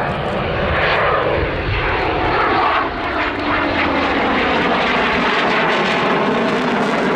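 An RAF Typhoon and a Spitfire flying past together in formation, loud engine noise whose pitch falls over the first couple of seconds as they pass.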